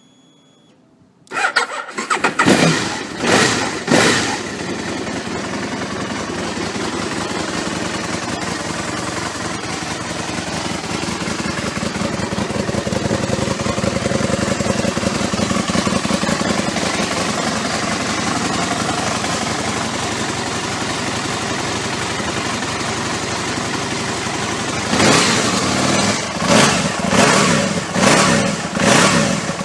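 Aprilia RSV Mille's 998 cc 60-degree V-twin starting about a second in and blipped three times. It then settles into a steady idle and is revved about five times in quick succession near the end.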